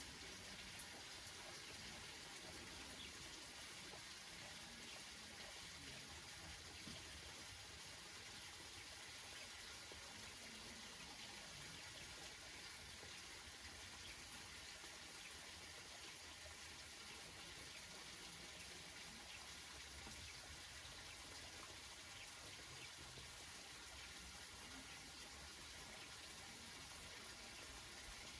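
Steady rain falling on banana leaves, a faint even patter of drops.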